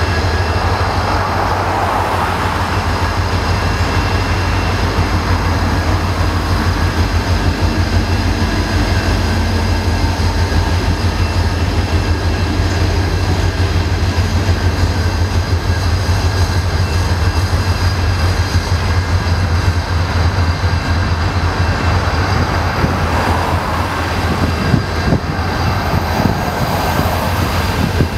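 Freight train cars (boxcars and empty centerbeam lumber flatcars) rolling past at a grade crossing: a steady, loud rumble of steel wheels on rail, with the rhythmic clack of wheelsets over the rail joints growing sharper near the end.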